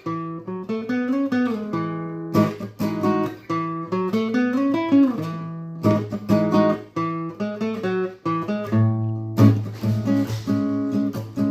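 Acoustic guitar playing chords, with new chords struck about every three to four seconds and left to ring.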